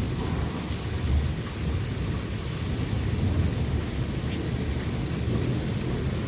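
Steady rain falling during a thunderstorm, with thunder rumbling low underneath.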